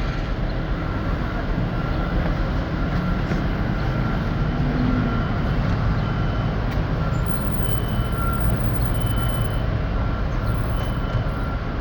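Heavy diesel track-work machinery running steadily with a low rumble, with a thin high beep repeating faintly on and off.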